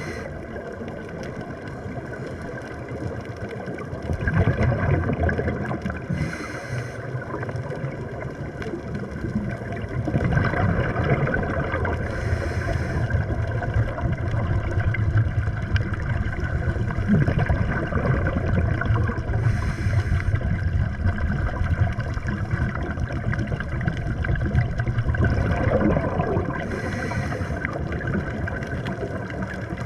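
Scuba diver breathing underwater through a regulator: a burst of exhaled bubbles hisses and gurgles for about a second every six to seven seconds, over a steady low underwater rumble.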